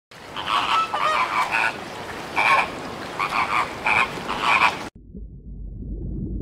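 Frogs croaking in short, irregular calls over a steady hiss, cutting off suddenly about five seconds in; after that a low rumbling noise begins and grows.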